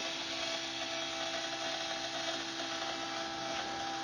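Electric fuel pump running steadily, a small-motor hum with fixed tones, pushing fuel through the lines and the return while the system is checked for leaks before a start attempt.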